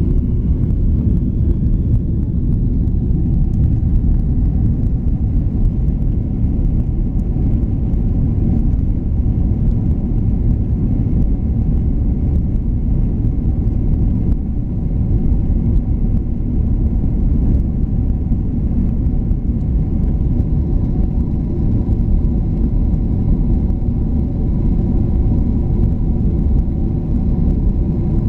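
United Airlines jet airliner during takeoff and climb: a steady low rumble of engines and airflow with a faint steady hum above it, unchanging throughout.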